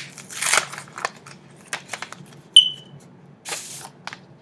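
A paper card envelope being torn open and handled: two short rips of paper among small clicks and rustles, with a sharp, briefly ringing click about two and a half seconds in.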